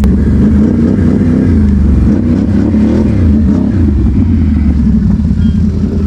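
ATV engine running hard on the trail, its pitch rising and falling with the throttle.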